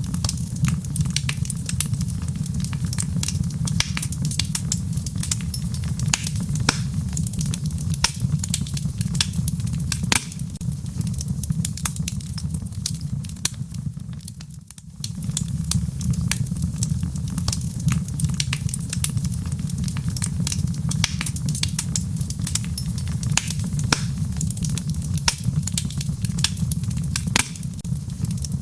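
Wood fire in a fireplace crackling, with frequent sharp pops over a low steady rumble of the flames. It dips briefly about halfway through.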